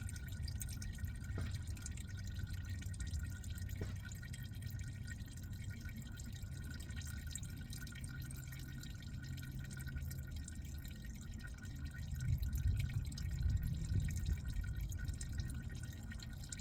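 Hot, thin engine oil dripping and trickling from the drain hole into a drain pan, a steady run of drips over a low background rumble, a little more uneven near the end.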